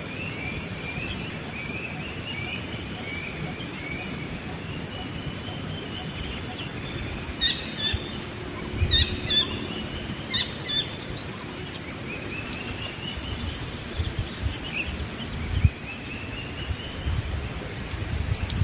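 Wild birds chirping: a repeated rising chirp in the first few seconds, then scattered sharp calls in the middle, over a steady high drone of insects. In the second half a few short low bumps, likely wind or handling on the microphone, are the loudest sounds.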